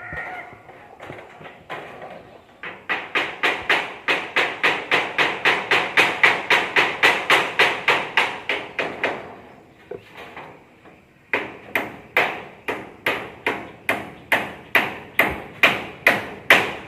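Hammer blows in quick, even strokes, about three a second, in two long runs with a pause of about two seconds between them.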